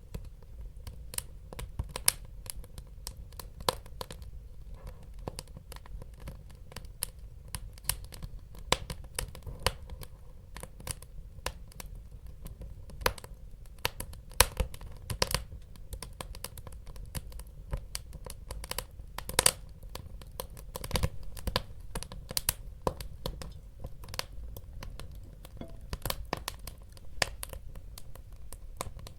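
Wood fire crackling: frequent irregular sharp pops and snaps over a steady low rumble of the burning logs.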